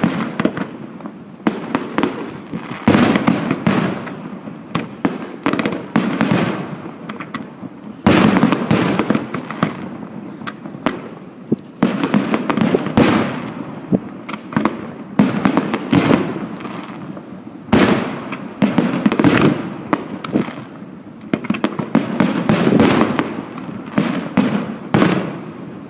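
Fireworks display going off: a steady barrage of booming shell bursts and crackling, with loud clusters of bangs every few seconds.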